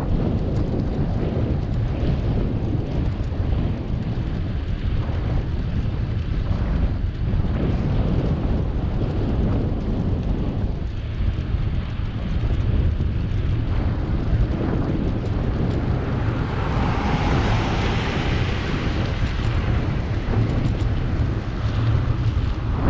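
Wind buffeting the microphone of a moving bicycle, a steady low rumble. A louder rushing sound swells and fades over a few seconds near the end.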